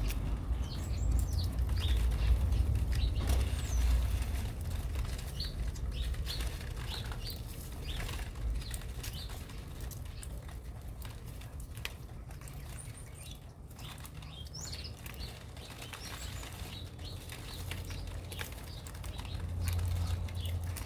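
Small birds chirping in short, scattered calls, with wing flutters and some clicks, over a low rumble.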